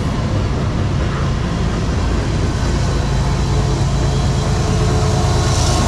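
Freight cars rolling past on the rails with a steady rumble. Near the end the diesel engine of a CSX ES44AC-H mid-train distributed-power locomotive comes in, its steady drone growing louder as it approaches.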